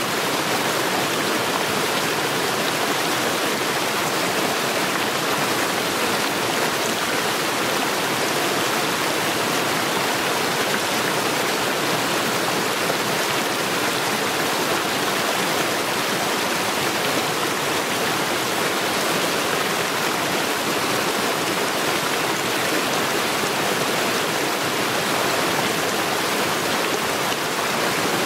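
Mountain stream rushing steadily over stones, a continuous even splashing with small cascades.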